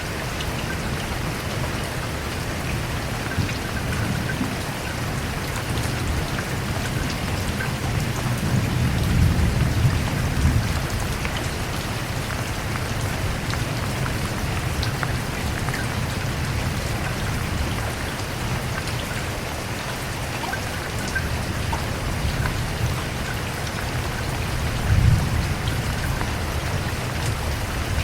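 Steady rain falling, an even hiss of drops on surfaces, with low rolls of thunder swelling about a third of the way in and again near the end.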